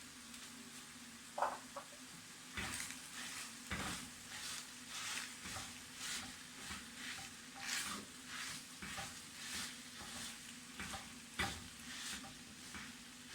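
A spoon stirring spaghetti in a cooking pot: a light clink about a second in, then a steady rhythmic scraping and stirring, about two strokes a second.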